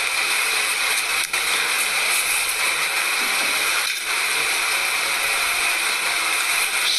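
Steady hiss-like noise that holds at one level throughout, with two very brief dropouts.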